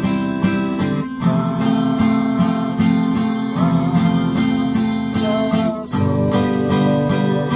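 Acoustic guitar strummed in a 3/4 waltz rhythm: a bass strum on the low strings, then quick downstrokes on the treble strings, about four strokes a second, six to the bar. The chord changes with a brief break about a second in and again near six seconds.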